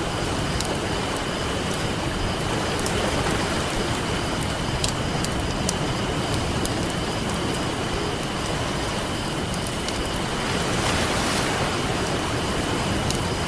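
Campfire crackling with scattered sharp pops, a cluster of them about five seconds in, over the steady wash of ocean surf; a wave swells up about eleven seconds in.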